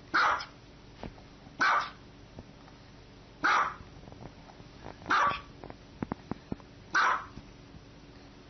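A dog barking five times, single short barks spaced about every one and a half to two seconds.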